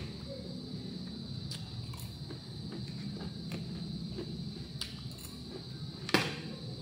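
Crisp lettuce and cucumber salad being chewed, with scattered small crunching clicks, and a fork striking the plate once sharply about six seconds in. A steady high-pitched whine and a low room rumble run underneath.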